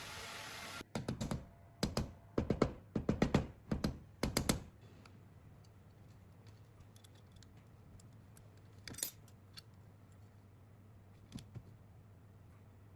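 Quick runs of sharp clicking and light rattling from small parts or hand tools being handled, in several bunches over the first few seconds, then two single clicks later on over a faint steady hum.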